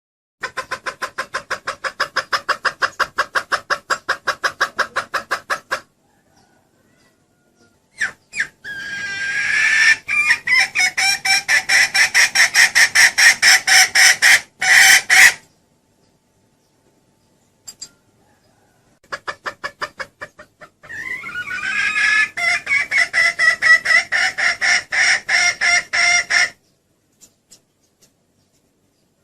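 Female junglefowl hen calling: rapid, evenly spaced clucks, about seven a second, in three long bouts separated by pauses, used as a lure call for hunting.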